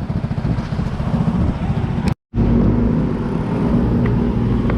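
Motor vehicle engine running nearby with a low, quickly pulsing rumble. The sound cuts out completely for an instant about two seconds in, then the rumble carries on steadier.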